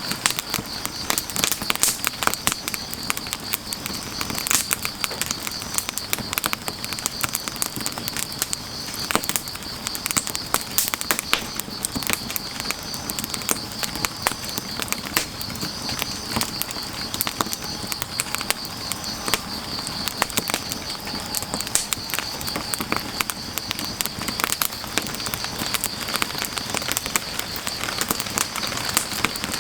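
Firewood burning, crackling and popping in irregular sharp snaps, over a steady, fast-pulsing chirring of insects.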